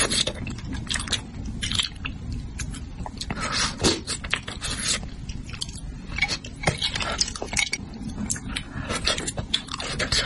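Close-miked eating of spicy braised fish: wet chewing, smacking and small crunches, coming as many short irregular clicks.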